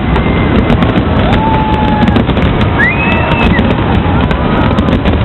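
Fireworks display going off continuously: a dense, loud crackle of bursts with many sharp pops.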